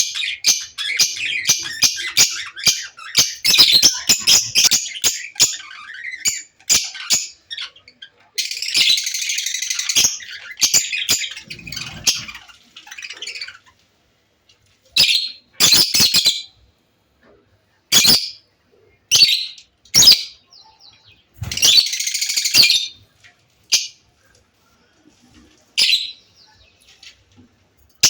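Young African grey parrot squawking and chirping: a dense run of rapid high calls for the first several seconds, then harsh rasping squawks one at a time with silent gaps between them.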